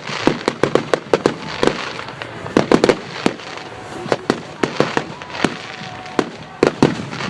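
Fireworks going off in a display: a rapid, irregular string of sharp bangs and crackles over a continuous hiss, with a few faint whistling tones.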